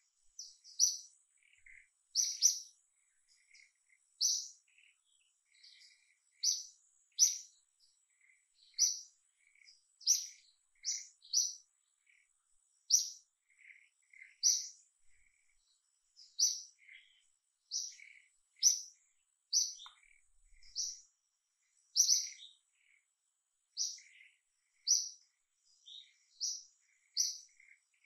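A bird chirping over and over, short high calls about once a second, with a faint steady high-pitched tone beneath.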